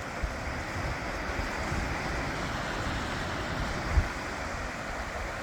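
Creek water rushing steadily below a waterfall, with wind buffeting the microphone and a brief low thump about four seconds in.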